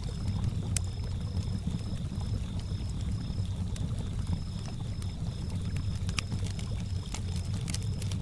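Campfire crackling with scattered sharp pops over a low, steady wash of lake water, while a cricket chirps in short, evenly repeated pulses.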